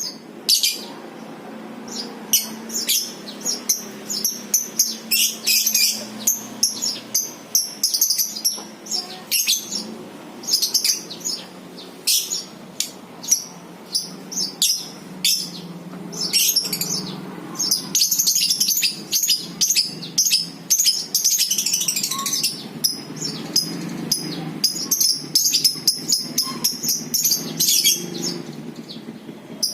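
Lovebirds singing the long, fast chattering song known as ngekek: a near-continuous run of quick, shrill chirps.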